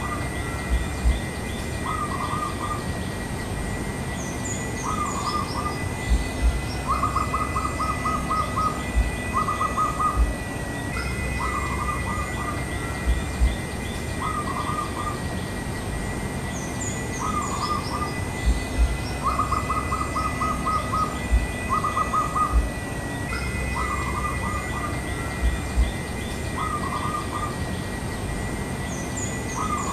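Zebra dove (Javan perkutut) cooing: a repeated phrase of short notes with quick trilled runs, given again about every twelve seconds. Its calling to a mate in another tree.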